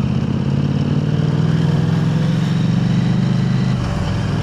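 Parallel-twin engine of a 2023 KTM 890 Adventure R running through an Arrow Race-Tech aluminium slip-on exhaust while being ridden. The exhaust note climbs gently in pitch, then eases back near the end.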